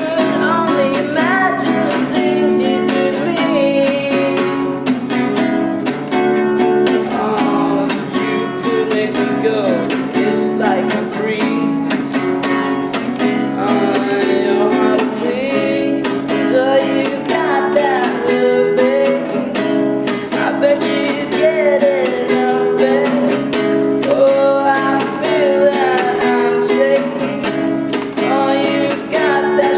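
A man singing to his own strummed acoustic guitar, steady chords with the melody gliding over them, ringing with the echo of a subway tunnel.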